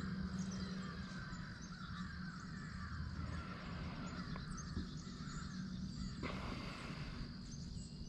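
Woodland ambience with distant crow-like bird calls, and a brief rustle of clothing or gear about six seconds in.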